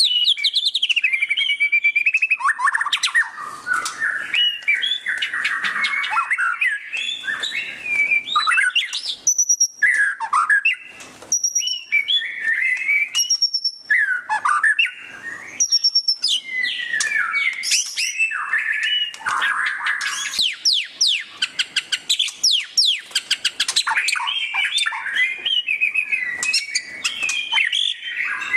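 White-rumped shama (murai batu) singing loudly and without a break in a fast, varied stream: whistled phrases, rapid chattering trills (the 'ngeriwik' style) and quick sweeping notes that rise and fall in pitch.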